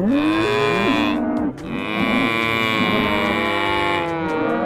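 Cow mooing: a short moo, then a second, long drawn-out moo.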